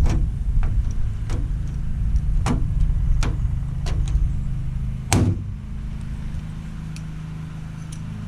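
Honda Civic engine idling through a hood-exit up-pipe exhaust: a steady low rumble with several sharp clicks over the first five seconds, easing a little quieter after about five seconds.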